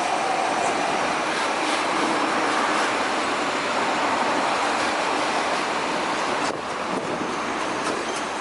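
Heavy truck traffic on a toll road: a loud, steady rush of tyre and engine noise from trucks driving past. It drops off abruptly about six and a half seconds in.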